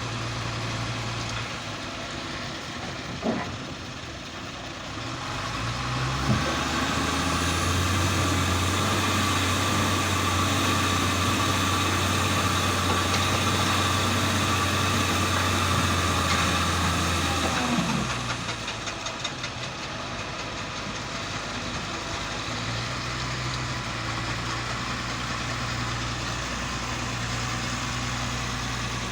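Heavy truck or loading-machine engine idling, then running up to higher revs about a fifth of the way in and holding there steadily for about twelve seconds before dropping back to idle.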